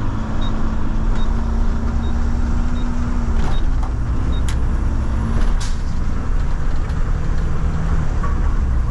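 Front-load garbage truck running, a steady engine and cab rumble with a hum that fades out about halfway through. Light ticks repeat about every 0.7 seconds, and a few sharp knocks or rattles come near the middle.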